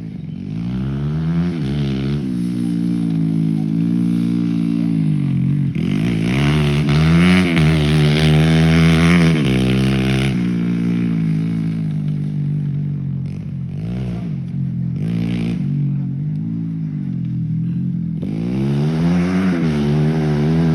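Motocross motorcycle engines revving, the pitch climbing and dropping again and again with throttle and gear changes, loudest about a third of the way through.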